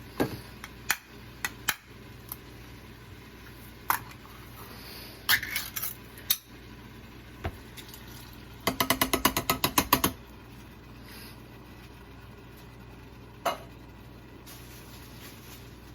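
Kitchen handling sounds while a can of diced tomatoes is opened: scattered clinks and knocks, and about nine seconds in a fast run of about ten ratcheting clicks over a second and a half from a can opener.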